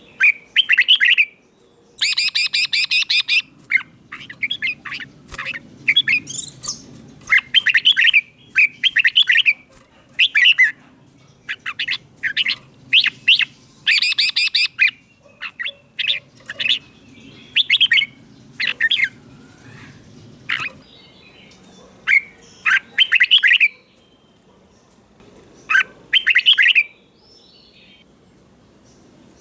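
Red-whiskered bulbul singing loud, clear whistled song phrases, one every second or two with short pauses between them.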